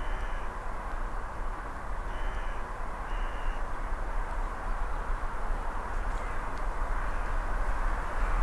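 Distant train on the line heard as a steady rumble and hiss that slowly grows louder, with three short high calls in the first few seconds.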